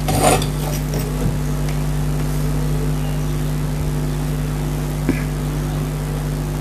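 Steady low hum, with a short rustle at the very start and a faint click about five seconds in.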